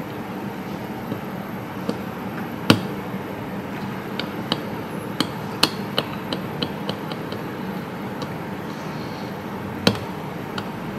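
Multimeter probe tips clicking and tapping against a circuit board as connections are checked, in irregular sharp clicks with a quick run of small ticks midway, over a steady low hum.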